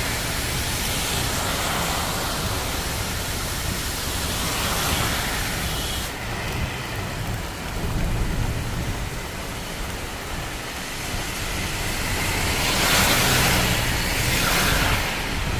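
Rain and a car driving on a wet road: a steady rushing noise that swells louder near the end.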